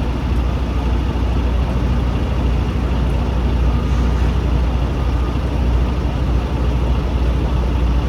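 Heavy diesel engine idling steadily: a low, even drone that holds the same pitch throughout.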